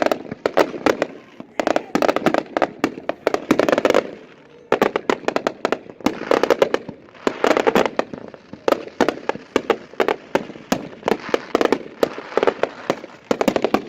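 Consumer fireworks cakes going off: a dense, irregular string of sharp bangs and crackling reports in clusters, with only brief lulls between volleys.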